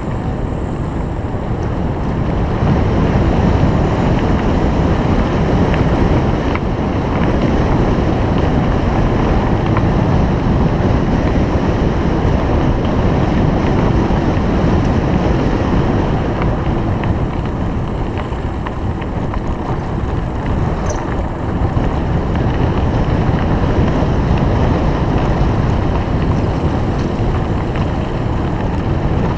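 Steady, loud wind buffeting on the camera microphone, a low rumbling rush, as from riding a bicycle.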